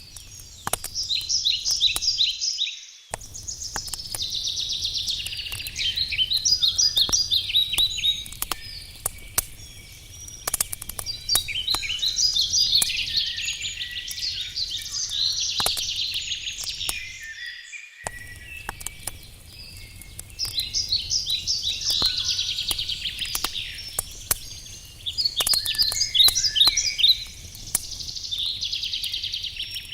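Songbirds singing in rapid trilled phrases every few seconds, with the scattered sharp crackles and pops of a wood campfire underneath.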